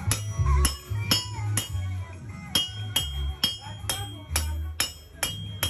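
A blacksmith's hammer striking steel on an anvil in a steady rhythm, about two ringing blows a second, as a pry bar is forged. Music plays underneath.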